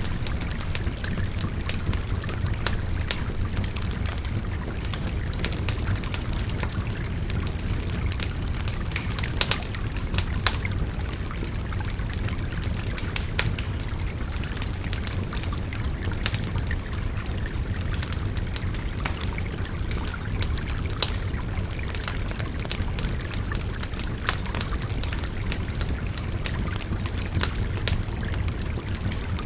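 Wood fire crackling with frequent sharp pops over the steady rush of a babbling river.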